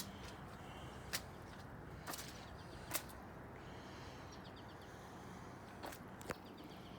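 Quiet outdoor background with a faint low hum and about five short sharp clicks spread a second or so apart, the loudest about three seconds in; a faint bird chirps near the middle.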